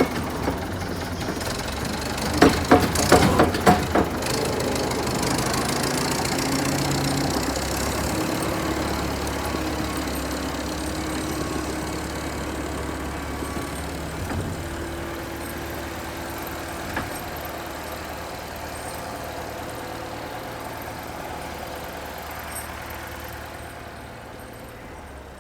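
Vintage Volvo tractor's engine running steadily, with a quick run of loud clanks about two and a half to four seconds in; the engine sound slowly grows quieter toward the end.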